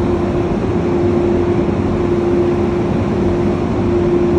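Steady machine drone with one constant humming tone, unbroken throughout.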